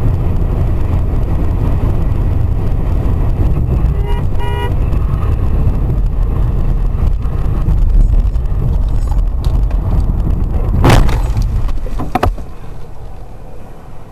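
Car in motion heard through a dashcam microphone: a loud, steady rumble of road and engine noise. A short car horn toot sounds about four seconds in, and a loud bang comes near the end, with a smaller knock about a second later.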